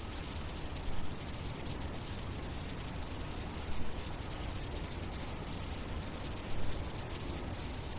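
Crickets chirring steadily in a high continuous band over a low background rumble.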